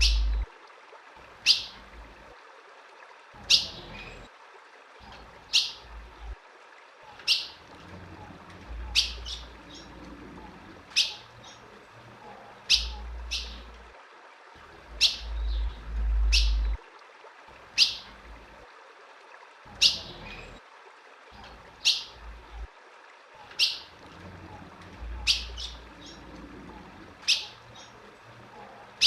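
Female ultramarine grosbeak (azulão) calling: short, sharp, high chirps about one every two seconds, sometimes in quick pairs. This is the kind of female call used to excite a male azulão. A low rumble comes and goes underneath.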